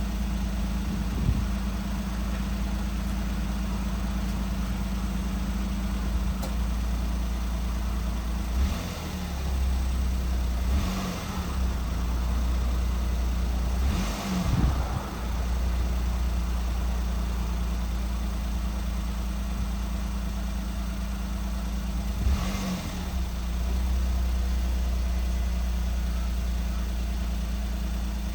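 Suzuki Palette SW's 660 cc turbocharged three-cylinder K6A engine idling steadily, with a few short throttle blips along the way. The engine has 190,000 km on it and is described as being in good condition.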